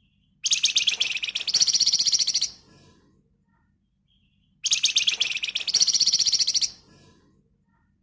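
Flamboyan (wergan Jawa) songbird singing a dense, rapid trill ('ngebren rapat') twice. Each trill lasts about two seconds and jumps to a higher pitch about halfway through.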